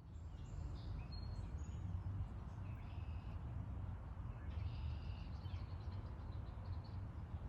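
Small birds chirping and calling at intervals over a steady low rumble.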